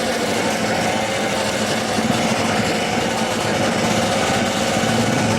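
Small motorbike engine running steadily, a light high-revving buzz.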